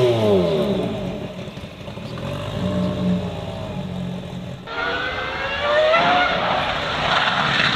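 Racing car engines: one engine's pitch falls away at the start as a car goes by. About halfway through, the sound changes abruptly to another engine rising in pitch as it accelerates, with a gear change near the end.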